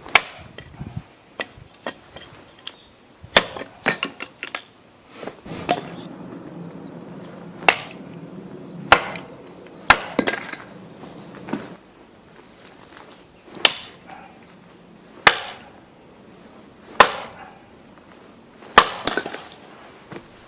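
Axe splitting firewood: a series of sharp wooden cracks, about a dozen strikes spaced a second or two apart, as the rounds split apart.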